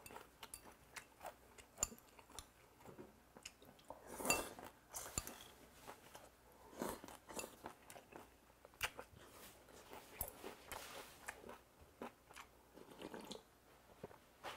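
Close-up chewing and crunching of mouthfuls of raw goby in cold soybean-paste broth with rice and crisp vegetables, in irregular bites with small clicks.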